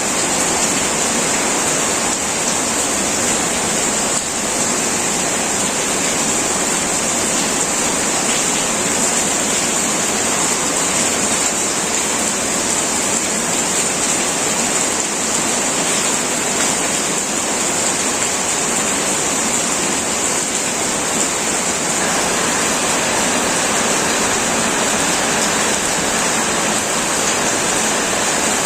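Heavy rain falling on a metal roof: a steady, dense hiss that never lets up, strongest in the high treble.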